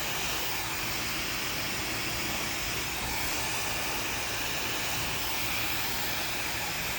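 Handheld hair dryer blowing steadily, a constant airy rush with no change in pitch or level.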